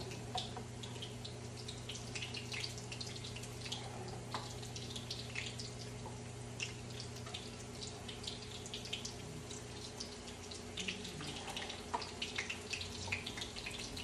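Shrimp frying in hot grease in a skillet: a steady sizzle with scattered sharp crackles and pops as more shrimp go into the oil. A steady low hum runs underneath and stops about ten seconds in.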